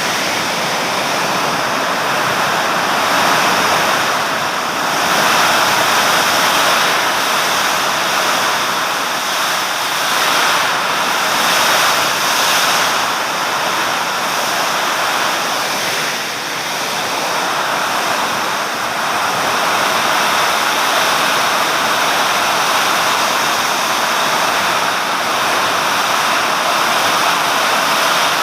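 Heavy summer storm rain and wind, a loud steady rush that swells and eases a little.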